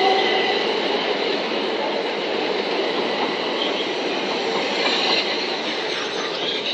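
A Southern Class 377 Electrostar electric multiple unit, two units coupled, running out of the station. The wheels rumble and clatter over the track, fading slowly as it draws away.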